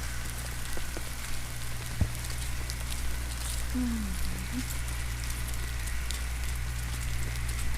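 Steady rain falling on the ground and surroundings, with scattered faint drop ticks over a low steady rumble. About halfway through, a short low tone dips in pitch and rises again.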